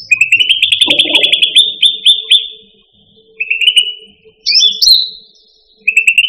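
Cucak ranti songbird singing: loud, fast chattering trills and clear whistles in bursts, a long run of rapid notes at the start, then shorter trilled phrases with a rising whistle midway.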